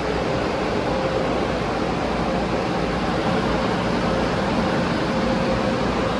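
Automatic car wash tunnel equipment running: a steady wash of noise from sprays and machinery, with a faint pitched hum that comes and goes.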